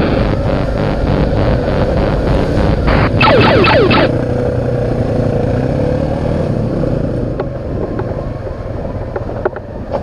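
Small single-cylinder dual-sport motorcycle engine under way. Its revs climb, fall sharply about three seconds in, then it runs steadier and quieter.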